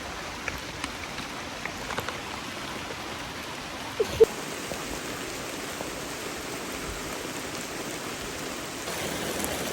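Steady pouring rain, with scattered drops ticking close by and one brief sharp sound about four seconds in.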